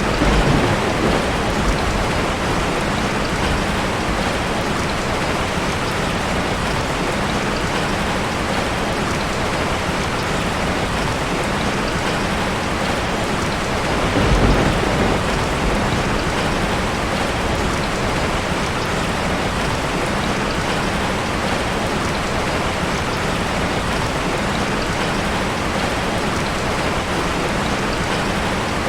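Heavy rain falling steadily, with two low rolls of thunder: one at the start and one about halfway through.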